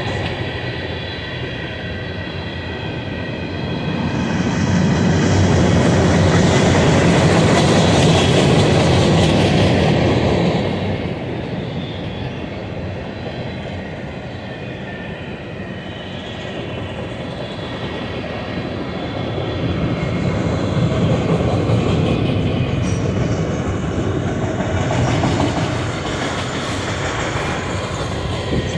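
Freight cars of a mixed manifest train, tank cars and boxcars, rolling past: a steady rumble of steel wheels on rail that swells louder twice as the cars go by.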